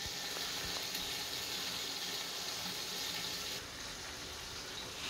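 Chicken wings frying in oil in a pan covered with a glass lid, giving a steady, even sizzle.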